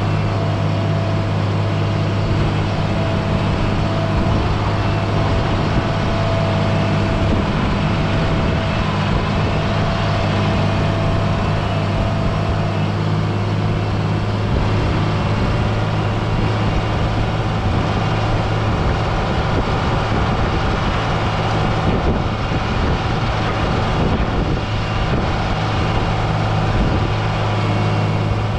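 John Deere 670G motor grader's diesel engine running steadily, a constant low hum with a thin higher whine that drops away about halfway through.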